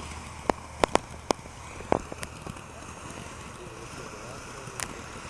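Firework and firecracker pops going off: a quick run of sharp cracks in the first two seconds, then one more near the end.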